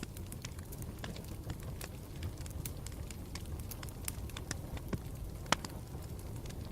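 Campfire burning with a steady low rumble and frequent irregular crackles and pops, the sharpest pop about five and a half seconds in.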